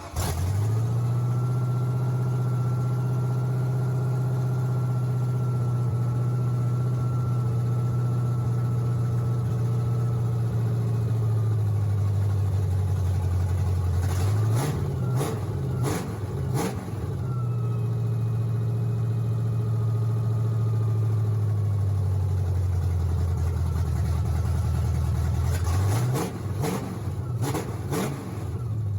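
A newly installed 351 Windsor small-block Ford V8 running at a steady idle, revved up and back down in a few quick blips about halfway through and again a few seconds before the end.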